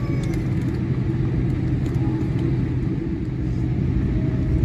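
Boeing 787-8 Dreamliner heard from inside the cabin: a steady low engine rumble and hum as the takeoff begins, growing slightly louder in the second half.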